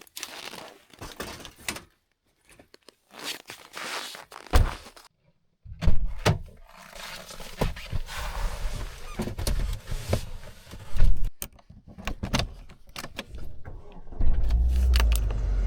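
A series of irregular knocks, thunks and clicks with rustling, like gear being handled. A steady low rumble sets in near the end.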